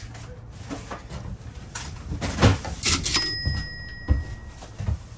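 Cardboard boxes being lifted and set down and boots stepping on wooden pallets in an enclosed cargo trailer: a string of irregular knocks, thumps and scrapes, the loudest about two and a half seconds in. A single ringing ding starts about three seconds in and fades over a second or so.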